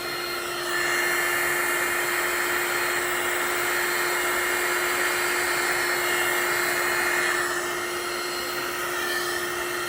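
Handheld hot-air blower running steadily, with a constant hum and a higher whine. It gets louder about a second in and eases off after about seven seconds, as it is blown across wet resin to push the white resin into waves.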